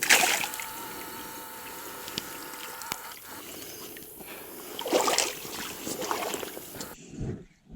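Water sloshing and splashing, with a sharp splash at the start and more splashes about five and six seconds in, before the sound drops off abruptly.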